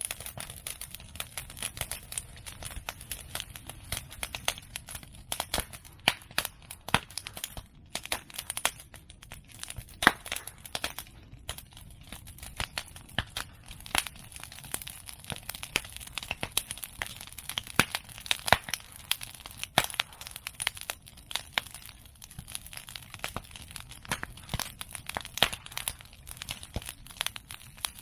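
Bonfire of cut bamboo and chestnut prunings crackling: a dense, irregular run of sharp snaps and pops, with one louder pop about ten seconds in.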